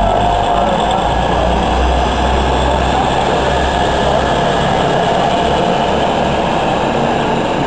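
Grand Central passenger train running past at a station: a loud, steady rumble of coaches on the rails, with a constant ringing tone over it.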